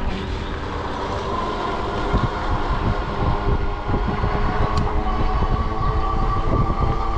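Ecotric 20-inch fat-tire e-bike rolling on a smooth road: a steady whine from the drive and fat tires, with wind rumbling on the microphone.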